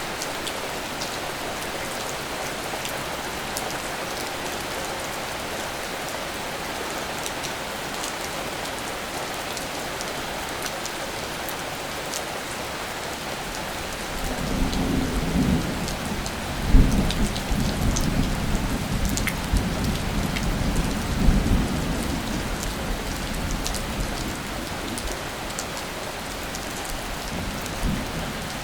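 Steady rain falling, with scattered drops ticking close by. About halfway through, a low rumble of thunder rolls in, surging a few times before dying away near the end.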